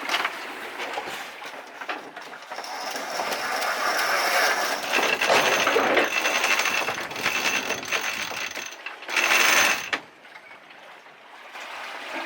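Sailboat deck gear working during a single-handed jibe: ratcheting clicks from a sheet winch, then a steady high whine, with a loud rush near the end.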